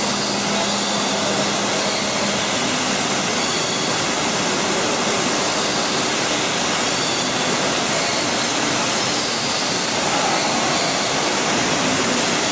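Steady rushing of falling water from a water feature, even and unbroken, with faint high chirps of birds over it.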